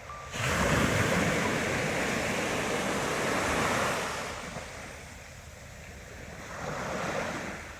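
Ocean waves breaking on the shore: a wave crashes about half a second in and washes out over the next few seconds, then a smaller wave swells and breaks near the end.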